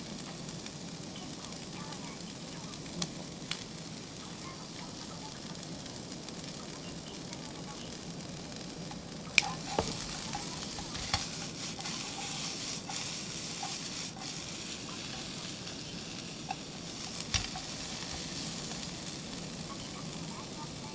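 Vegetables sizzling as they stir-fry in a small pan on a camping gas stove, stirred with chopsticks. The frying gets busier about nine seconds in, with a few sharp clicks of the chopsticks against the pan.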